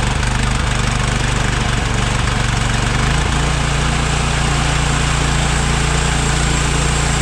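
Small gasoline engine of a homemade band sawmill running steadily just after a cold pull start on choke, its speed stepping up slightly about three seconds in.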